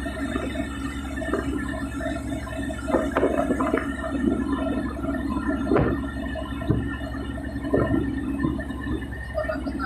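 Tugboat engine running with a steady low hum, with irregular pitched sounds over it and several sharp knocks, the loudest about three and six seconds in.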